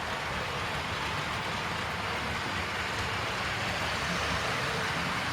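Model train running along the layout's track: a steady rolling rush of wheels on rails and the locomotive's motor, growing slightly louder near the end.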